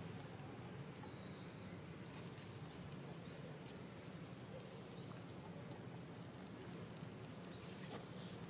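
Quiet outdoor ambience with a steady low hum, over which a bird repeats a short, high, rising chirp five or so times, every one to two seconds.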